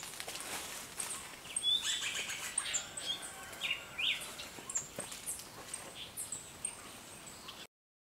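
Several birds chirping, with many short calls and quick whistled glides over a faint outdoor hiss. The sound cuts off abruptly near the end.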